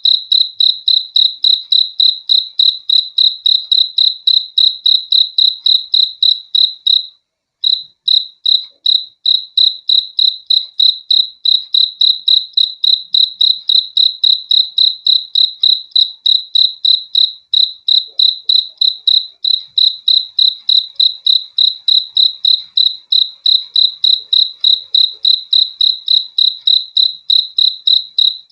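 A cricket chirping loudly in a steady, even rhythm of several short chirps a second, all on one high pitch. The chirping breaks off briefly about seven seconds in, then resumes.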